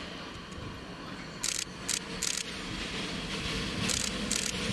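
Train drawing closer: a low rumble that grows steadily louder, broken by short, sharp bursts of hiss, two about halfway through and two more near the end.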